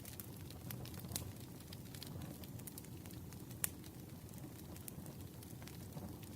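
Campfire crackling: a steady low hiss with scattered sharp pops and snaps of burning wood, the loudest pop about three and a half seconds in.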